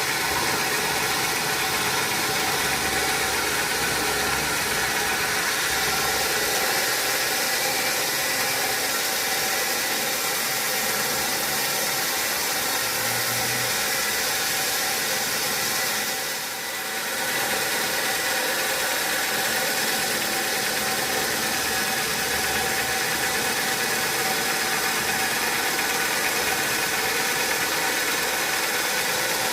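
Sawmill machinery running steadily, an engine-driven hum with a broad hiss over it, briefly dipping in level about halfway through.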